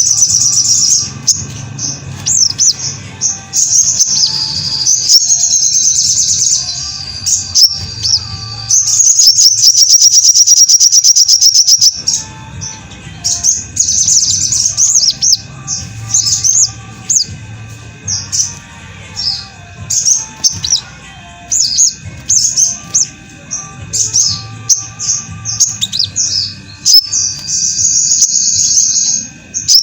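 Sogon (sogok ontong) songbird singing as a masteran training recording: busy high-pitched chirps and twittering phrases, with a fast, even trill for a few seconds about a third of the way in.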